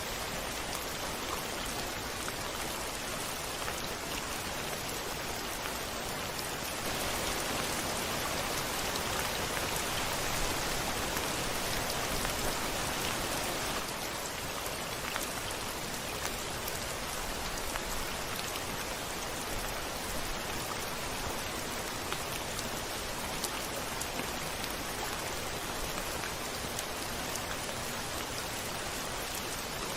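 Steady rain pattering on a window, with fine scattered drop ticks; it grows louder for about seven seconds, starting some seven seconds in, then settles back.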